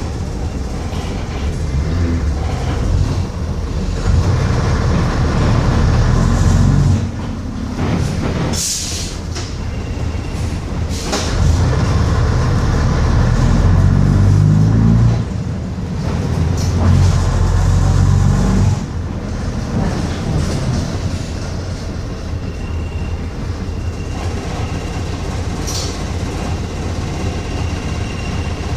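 Bristol RELL6L bus's diesel engine heard from on board, pulling under load three times with the engine note climbing each time, and dropping back in between. It then runs quieter and steady for the last ten seconds. A few short knocks or rattles come from the bus body.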